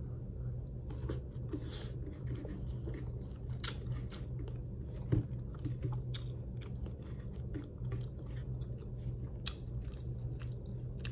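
A person chewing food close to the microphone: irregular small wet mouth clicks and a few sharper bites, over a steady low hum.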